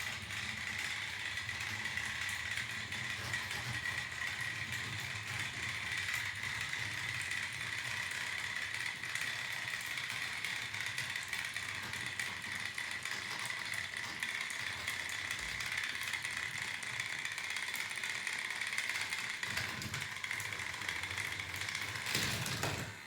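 Two small battery-powered toy Thomas engines running flat out against each other in a pulling contest, their little electric motors and plastic gears giving a steady high whine with a fine rattle. The sound changes just before the end.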